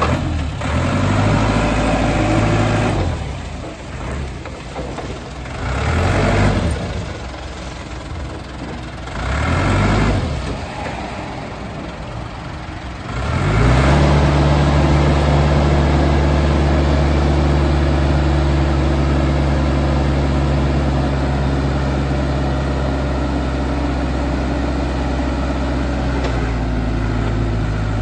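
Perkins diesel engine of a 1997 Hyster forklift running, revved up and down three times, then held at steady higher revs from about halfway on.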